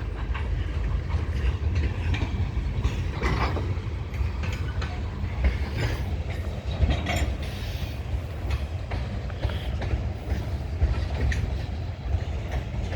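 The last cars of a freight train rolling past. The steel wheels clack and clank over the rails above a steady low rumble.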